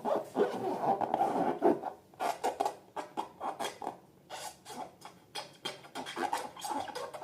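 Slime and rubber balloons being handled and squeezed: a busy, irregular run of sticky crackles, squishes and rubbing.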